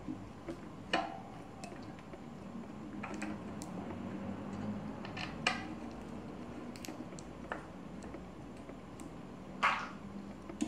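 Bicycle rear-brake parts and hand tools clinking and tapping against each other during fitting, a scatter of light metal clicks with a few sharper knocks, over a low steady hum.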